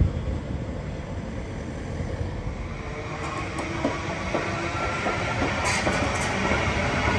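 Queensland Rail electric multiple unit passing close by on the track, its wheels clicking over the rail joints amid a steady rolling rumble that grows louder over the second half.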